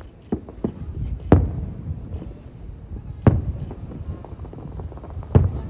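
Aerial fireworks shells bursting: three loud booms about two seconds apart, each with a low rumbling tail, and smaller pops and crackles between them.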